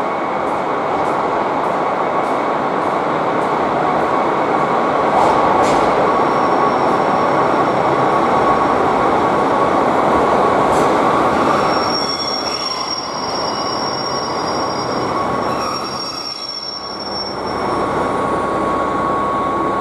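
JR Hokkaido KiHa 261 series 5000 'Lavender' diesel multiple unit pulling into the platform and braking to a stop, its running noise under a steady squeal of brakes and wheels. A higher-pitched squeal joins in for a few seconds past the middle.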